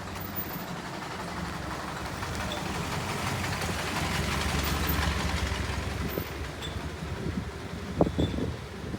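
A motor vehicle passing by, its engine rumble and road noise swelling to a peak about halfway and then fading. A short, sharp pitched sound near the end is the loudest moment.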